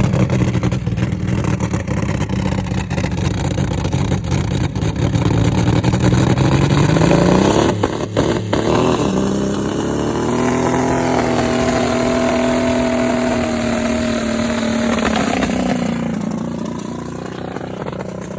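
Turbocharged Dodge Dakota engine running hard, deliberately abused in an attempt to blow it up. It runs steadily, revs up about halfway through with a few sharp cracks, holds at high revs for several seconds, then drops back and fades near the end.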